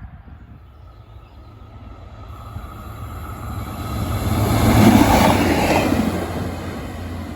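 A train approaching and passing, growing louder to its peak about five seconds in and then fading, over a steady low hum.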